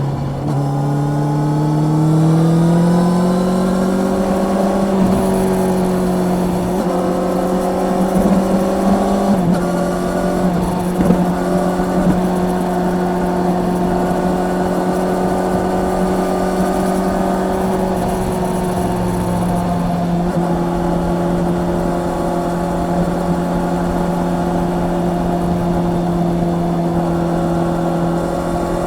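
Honda CB650R's inline-four engine under way, its note rising as the bike accelerates for the first few seconds, then holding a steady pitch at cruising speed, with a slight drop about nine seconds in. Wind rush sits underneath.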